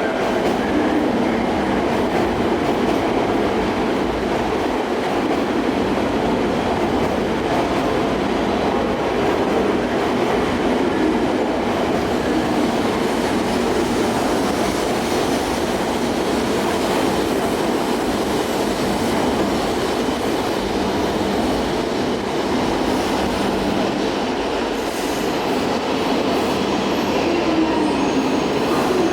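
E5 series Shinkansen train running through the station at low speed: a steady, unbroken rumble of wheels on rail.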